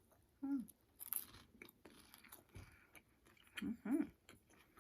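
A person chewing food close to the microphone, with soft mouth clicks and a couple of short hummed sounds.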